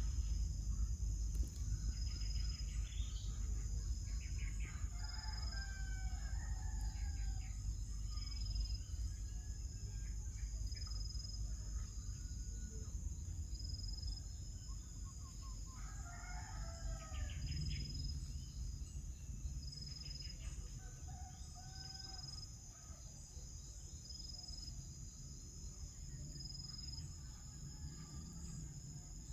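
A rooster crowing twice, about five and sixteen seconds in, over a steady high drone of insects with a chirp repeating a little more than once a second and a low rumble underneath.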